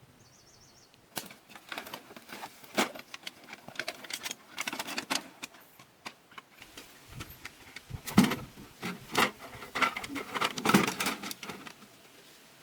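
Irregular clicking, tapping and rustling, like small hard objects being handled, starting about a second in and stopping shortly before the end.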